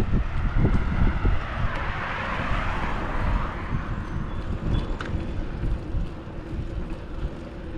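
Wind buffeting the action camera's microphone while cycling, with a vehicle passing by: its tyre noise swells and fades between about one and four seconds in.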